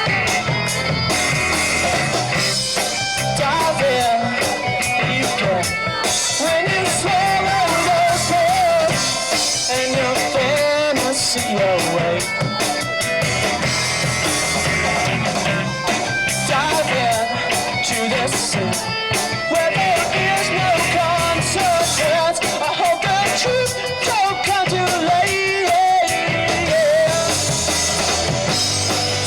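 Live rock band playing a song: distorted electric guitars and a drum kit under a sung lead vocal line.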